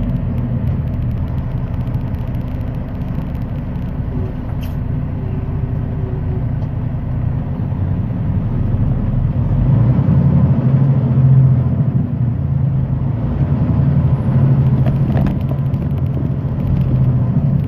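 Semi truck's diesel engine running while driving, heard from inside the cab as a steady low rumble that grows louder from about ten seconds in.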